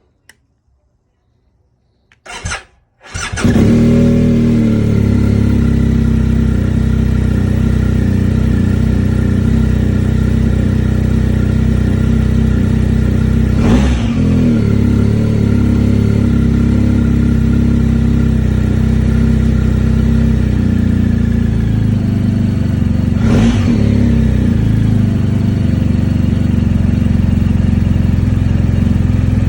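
2020 BMW R 1250 GS Adventure's boxer-twin engine being started: after a short first sound from the starter there is a brief pause, then the engine cranks, catches and runs at a steady idle. This start-up hesitation remains even with a new, stronger battery, so the owner takes it for a fault other than the battery.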